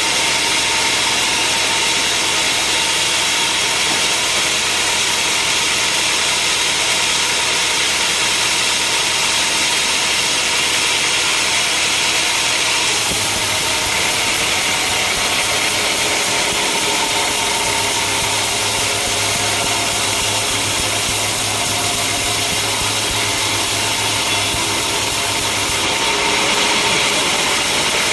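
Sawmill machinery running steadily, a saw cutting through a log over an engine, with a high, hissing sawing noise. The sound changes about halfway through and again near the end.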